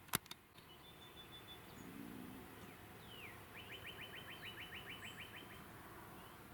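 Songbirds calling faintly in the early morning: a thin high note, a falling whistle, then a fast trill of about a dozen notes, roughly seven a second. A single sharp click comes right at the start and is the loudest sound.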